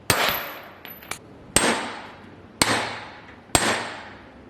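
Hammer blows on metal in a reverberant shop: four hard strikes about a second apart, each ringing on and fading, with a couple of lighter taps between the first two.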